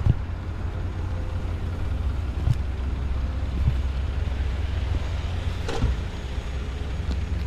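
A heavy construction machine's engine running steadily at a low pitch, with a few sharp knocks over it, about three seconds apart.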